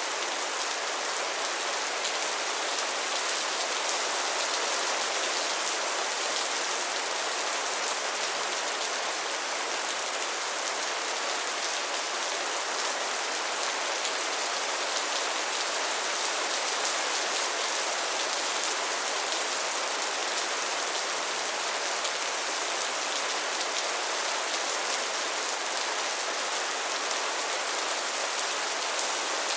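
Steady rain falling, a dense even hiss of many drops with no let-up.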